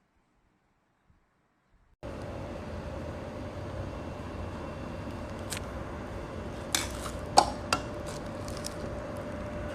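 Near silence, then a steady hum starts suddenly about two seconds in. Over it come several sharp clinks and knocks of hard objects being handled, the loudest a little past the middle.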